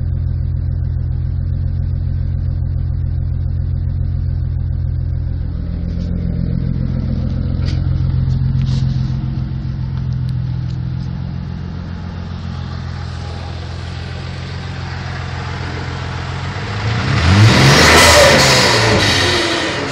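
Twin-turbo Mitsubishi 6G72 DOHC V6 in a Magna idling steadily, its revs lifting slightly around six to nine seconds in. Near the end it is blipped once, revs rising sharply and dropping back to idle.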